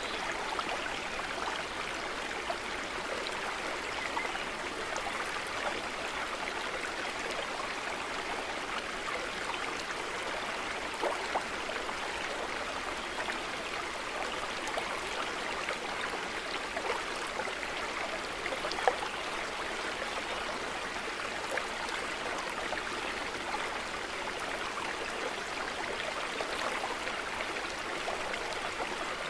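A small stream running, a steady rush of flowing water with a few brief splashes and ticks, one sharper about two-thirds of the way through.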